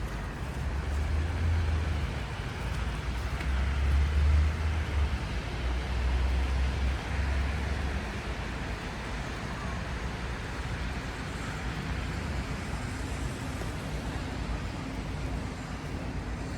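Road traffic passing on a city street: a deep vehicle rumble through the first half, loudest about four seconds in, over a steady hiss of tyres on the road.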